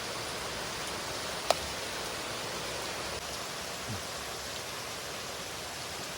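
Heavy rain falling, a steady hiss, with a single sharp click about a second and a half in.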